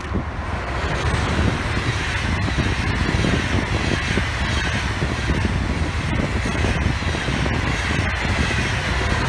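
Passing train: a loud, steady rush of wheels on rail that cuts off suddenly near the end.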